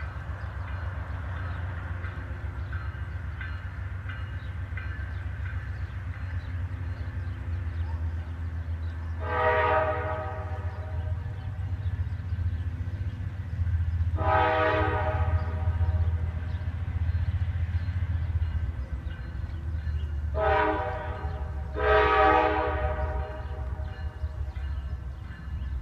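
Diesel freight locomotive's multi-chime air horn sounding four blasts in the long, long, short, long grade crossing signal, over the steady low rumble of the train's diesel engines.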